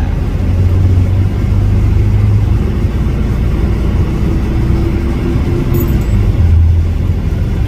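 A road vehicle driving, its engine and road noise making a steady low rumble, with a faint added hum in the middle.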